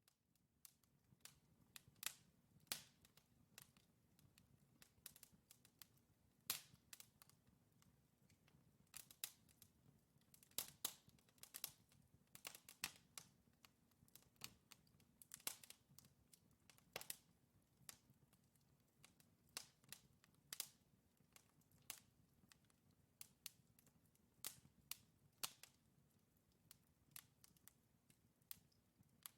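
Logs burning in a wood fireplace, crackling: irregular sharp pops and snaps, sometimes several in quick succession, over a faint steady low background of the fire.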